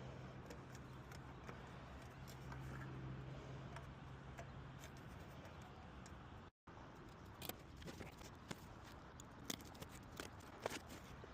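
Faint steady low machine hum for the first several seconds, then after a brief dropout a run of scattered light clicks and taps.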